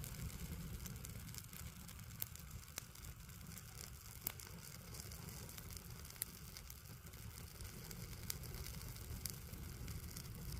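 Bonfire of dried pepper plants crackling: sharp single pops every second or two over a steady low rumble.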